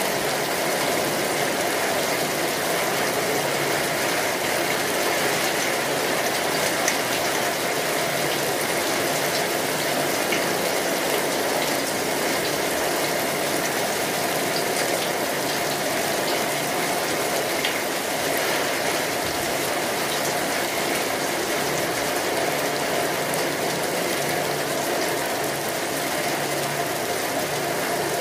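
Steady rain falling, an even dense patter of drops with a few faint individual ticks and no thunder.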